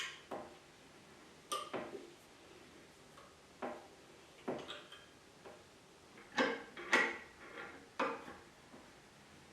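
Wooden workbench parts knocking and clunking, about nine irregular knocks spread across several seconds, the loudest a pair about two-thirds of the way through, as a freshly waxed end piece is worked into place on the bench top.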